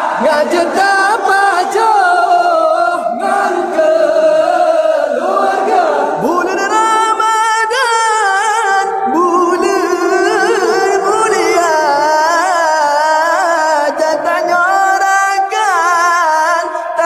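Group singing over music: a chanted song with a wavering, ornamented melody line.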